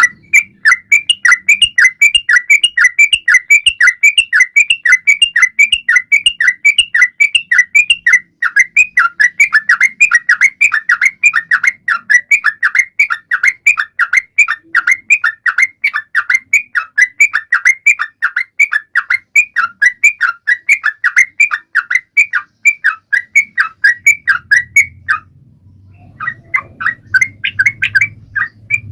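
Yellow-vented bulbul (trucukan) singing a long, unbroken run of short, bright notes, about three a second, with a brief pause near the end before it starts again. This is the chattering 'gacor' song used to coax silent cage birds into singing.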